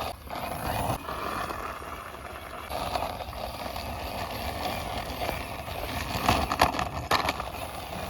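Plastic wheels of a toy truck rolling and scraping along a concrete wall as it is pushed by hand, a steady grinding rumble with a few sharp knocks about six to seven seconds in.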